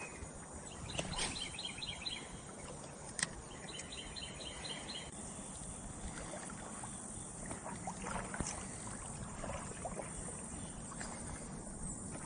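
Water sloshing steadily around legs wading through a muddy creek. Twice in the first few seconds a bird sings a short trill of quick repeated notes.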